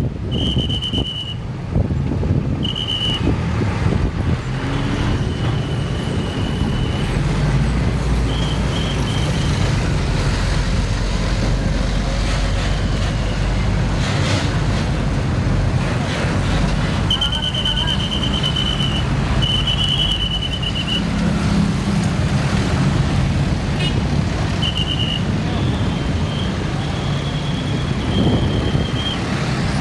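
Heavy road traffic: trucks and buses passing with a steady low engine rumble that swells as a vehicle goes by. A high-pitched steady tone sounds again and again in short blasts throughout, some a fraction of a second and some a couple of seconds long.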